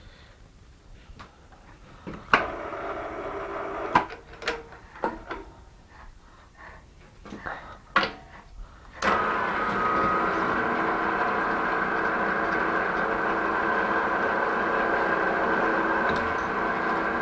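A few sharp clicks and knocks of metal parts and tools being handled, then about nine seconds in a metalworking machine tool's motor and gearing start suddenly and run with a steady hum.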